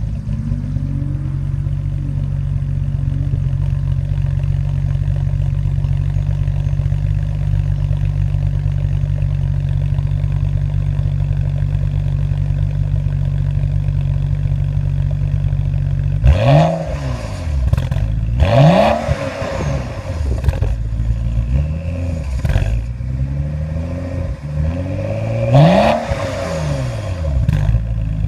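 BMW 535i (F10) turbocharged inline-six engine through an M Performance exhaust, idling steadily, then from about 16 seconds in revved in a series of short throttle blips, each rising and dropping back to idle.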